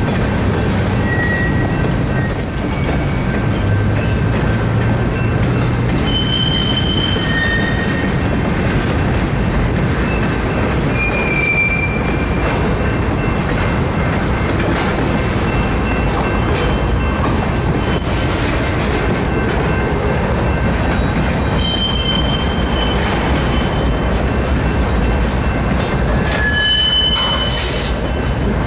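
Freight train cars rolling past on the rails as the train backs up: a steady rumble of wheels on track, with short high-pitched wheel squeals at varying pitches scattered throughout.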